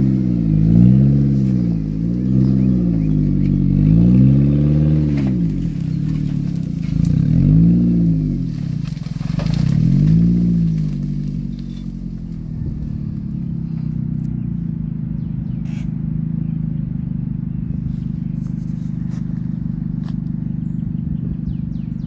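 Car engine revved up and down about six times, then settling to a steady idle about twelve seconds in.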